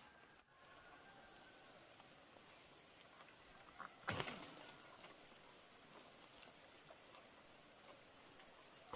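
Insects calling in a steady, high-pitched pulsing trill, faint, with a single sharp knock about four seconds in.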